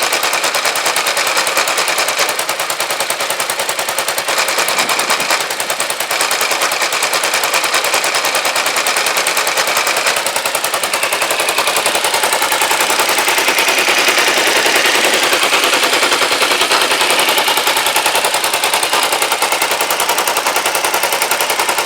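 Kawasaki GPZ500S 498 cc parallel-twin engine running steadily, with a rapid, even firing beat. It has no fuel supply connected and runs only on the fuel left in the carburettor float bowls.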